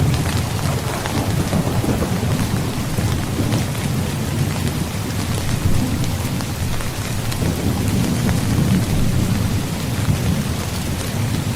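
Heavy rain falling steadily, with fine patter of drops over a continuous low, rolling rumble of thunder that swells and eases.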